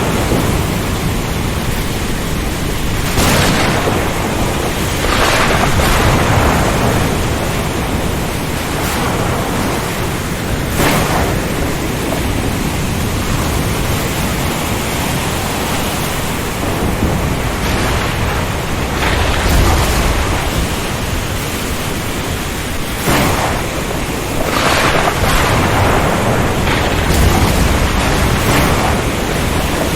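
Ocean storm: a steady rush of wind, rain and surf with repeated louder surges, and deep rumbles of thunder about two-thirds of the way through and again near the end.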